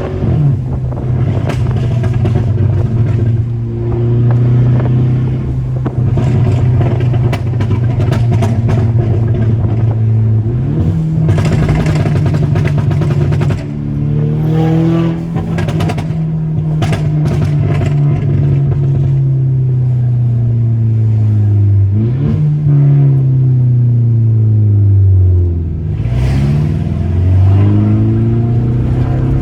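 Turbocharged 2.0-litre four-cylinder of a Mk6 VW GTI on a Stratified tune, running under way. Engine speed holds steady, jumps up about ten seconds in, sinks slowly twice and climbs again near the end. Sharp exhaust pops and crackles from the tune's pops-and-crackles map break out in bursts in the middle and again late on.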